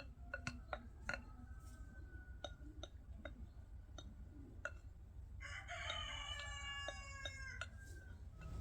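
A rooster crowing once, one long call of about two and a half seconds starting a little past the middle, over scattered sharp clicks and taps.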